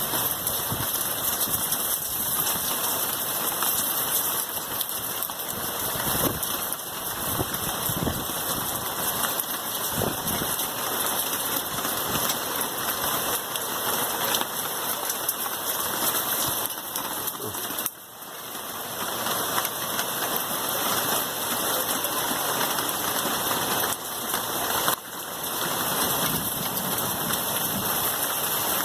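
Steady heavy rain falling, an even hiss. The sound drops suddenly twice in the second half and swells back up.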